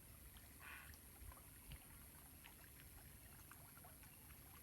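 Near silence: faint outdoor background with a few scattered light ticks and a soft low thump a couple of seconds in.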